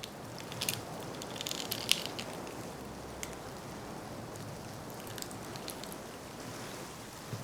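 Pine cone being crushed and twisted as Foley for cracking ice, giving scattered sharp crackles, densest in the first two seconds, over a steady rushing noise.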